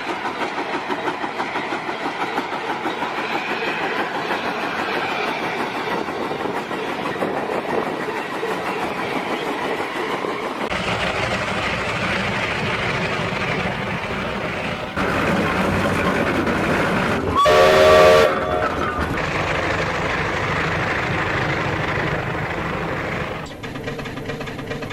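Steam traction engines running, their exhaust beating in quick, even strokes, across several changing clips. About two-thirds of the way through, a steam whistle gives one short blast, the loudest sound here.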